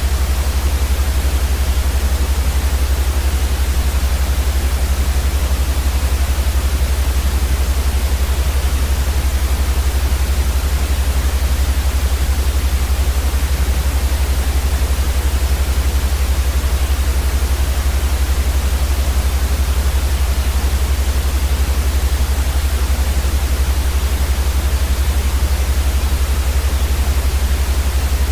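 Steady white noise for sleep, an unbroken hiss spread evenly across the range with a strong low rumble underneath. It does not change.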